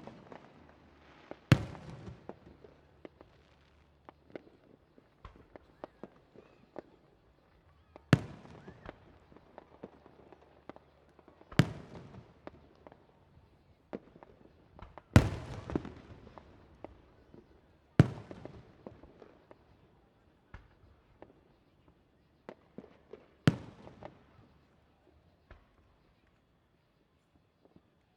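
Fireworks display with about six loud booming shell bursts a few seconds apart, each trailing off in crackles, and smaller pops and crackling in between. It goes quieter near the end.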